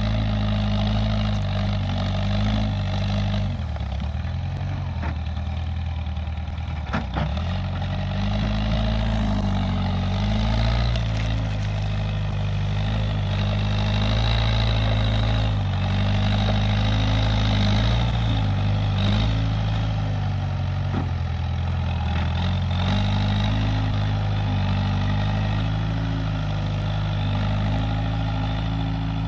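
Case 580G backhoe loader's diesel engine running steadily, its speed stepping up and down as it works, with a sharp knock about seven seconds in.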